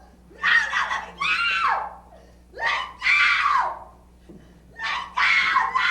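A woman screaming again and again: three pairs of loud, drawn-out screams, each scream falling in pitch.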